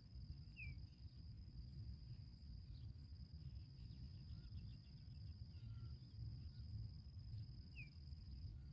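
A steady, high-pitched insect trill, cricket-like, with two short bird chirps (one about a second in and one near the end) and a quick run of faint chips midway, over a low rumble.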